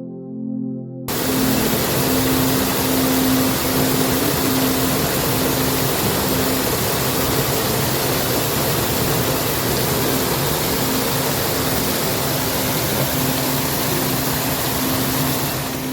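Steady, loud hiss of heavy rain, starting abruptly about a second in, with soft background music faintly underneath.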